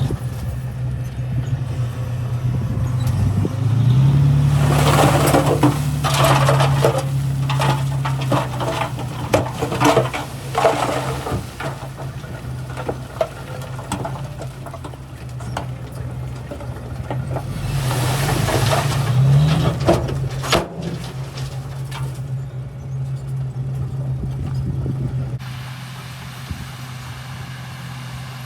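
Small crawler bulldozer's diesel engine running under load, revving up about four seconds in and again around nineteen seconds in, with clattering of tracks and stone while it pushes. It settles to a quieter, steadier run near the end.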